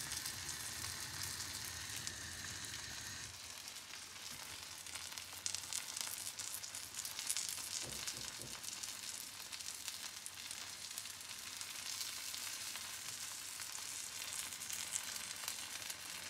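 Thin egg omelette sizzling steadily in a non-stick frying pan over a gas flame as it cooks through. A low hum stops about three seconds in, and there is a brief knock about eight seconds in.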